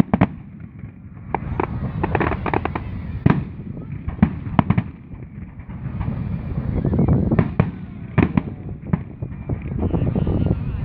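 Fireworks display: a quick run of sharp bangs from bursting aerial shells, with clusters of crackling bursts and a low rumble between the explosions.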